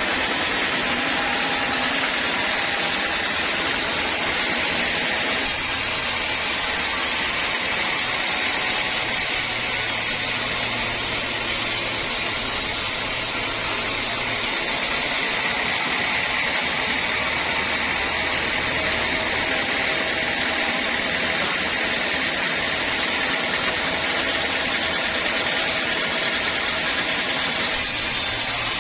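Sawmill saw cutting through a teak log: a steady, unbroken mechanical noise that holds without pause.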